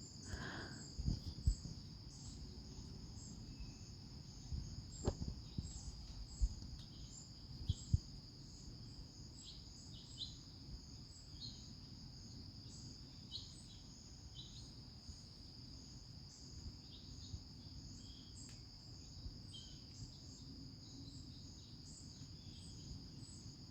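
Insects chirping: a steady high trill with short chirps repeating over it, above a low background rumble. A few soft knocks come in the first eight seconds.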